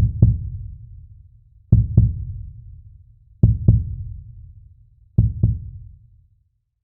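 Heartbeat sound effect: four slow double thumps, lub-dub, about one and three-quarter seconds apart, each dying away.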